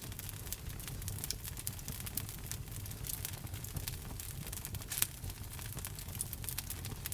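Wood fire in a fireplace crackling, with dense small pops and snaps over a low rumble of the flames and one louder pop about five seconds in.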